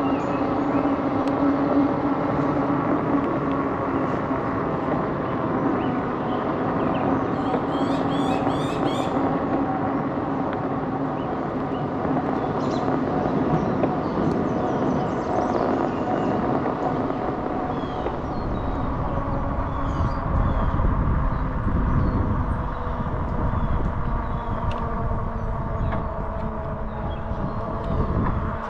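Electric bike in motion on a paved trail, heard from a handlebar-mounted camera: a steady hum of motor and tyres. About two-thirds of the way through, a heavier wind rumble on the microphone joins in.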